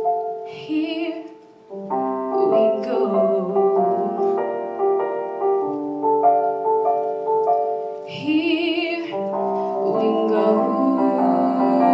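A female voice singing with piano accompaniment: the piano plays sustained chords throughout, and the singer holds two short notes with vibrato, about half a second in and again about eight seconds in.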